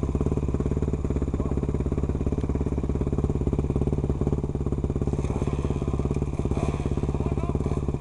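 Enduro motorcycle engine idling steadily, close to the microphone, with no revving.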